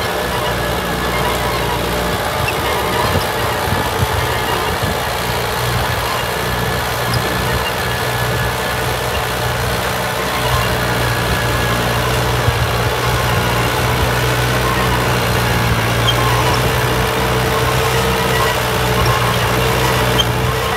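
Tümosan 8095 tractor's diesel engine running steadily at an even speed.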